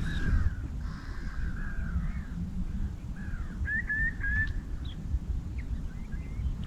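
Wild birds calling across the water in a string of short calls, with a run of quick chirps about four seconds in, over a steady low rumble.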